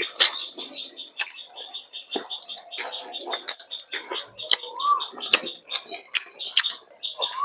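Close-up eating sounds: wet chewing and lip-smacking clicks from a mouthful of rice and fried fish. Birds chirp behind it, with a short call about five seconds in and another near the end.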